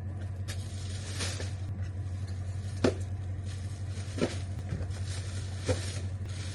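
Split firewood knocking as pieces are loaded, a few sharp knocks about every second and a half, over the steady low hum of an idling truck engine.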